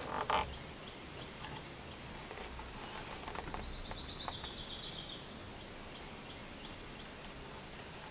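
Quiet pine-woods ambience with a bird giving a rapid high trill of many quick notes, about three and a half seconds in, lasting under two seconds. A brief louder call or noise comes right at the start.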